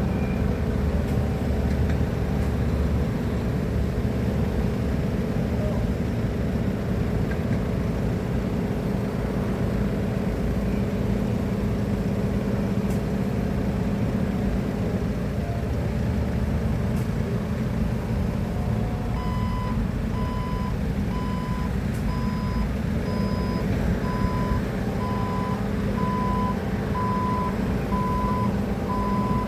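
Forklift's diesel engine running steadily. About two-thirds of the way through, a reversing alarm joins it, beeping at an even pace as the machine backs up.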